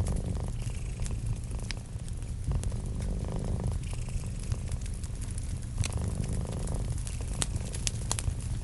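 A cat purring steadily, a close pulsing rumble that swells every few seconds, with a wood fire crackling in sharp clicks and pops, a few louder ones near the end.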